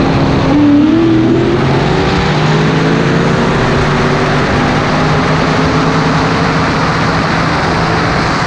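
High-powered street cars accelerating hard. The engine note climbs over the first few seconds and then holds steady over a loud rushing noise.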